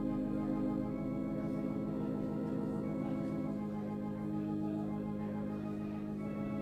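Organ playing slow, sustained chords, each held for a second or two before moving to the next.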